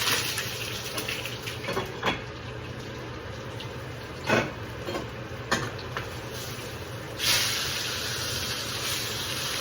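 A ribeye steak sizzling in a hot pan, searing to a char but not burning. A few short clatters are heard along the way, and the sizzle jumps louder and brighter about seven seconds in.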